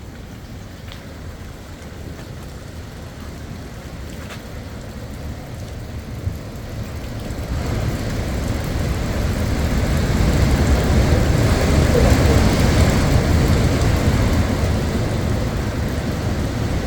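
Wind blowing across the microphone, a low rumbling noise that builds into a stronger gust about halfway through.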